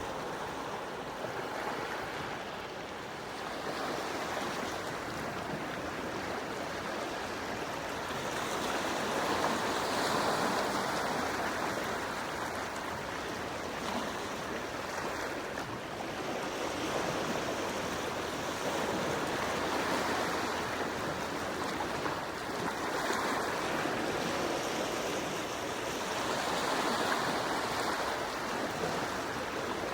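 Gentle sea waves washing onto the shore: a continuous wash of water that swells and fades every several seconds.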